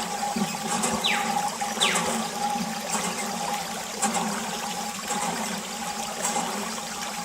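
Water pouring and splashing steadily from a mini water pump, with two quick falling whistles about a second in.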